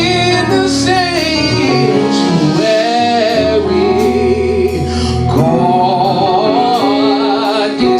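Gospel worship singing with long, wavering held notes over a steady instrumental accompaniment.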